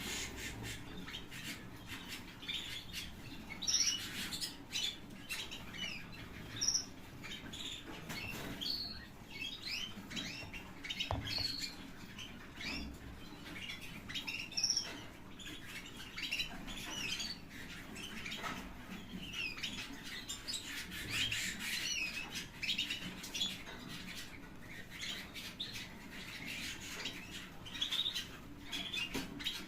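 White opal canaries chirping and calling in short scattered notes, with wing flutters and small clicks mixed in.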